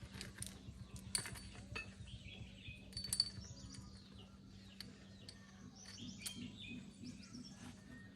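Faint light metallic clinks, with birds chirping and a low steady hum underneath.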